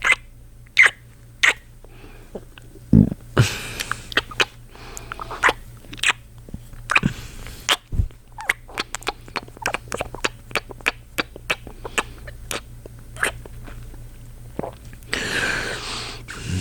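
Close-miked kissing sounds: a man's lips making repeated wet smacks and smooches, spaced out at first and then in a quick run through the middle, with breathy exhales between.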